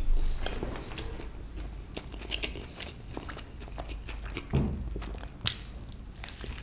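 Close-miked chewing of a mouthful of grilled chicken burger (soft bun, chicken patty, cheese slice, pickles and mayo), with wet clicks and smacks, and two louder sharp smacks or bites in the second half.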